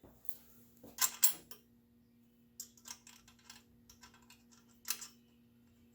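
Small metal clicks and taps as a washer and nut are fitted onto an intake mounting stud and run down: a quick cluster about a second in, then a string of lighter irregular clicks ending in one sharper click.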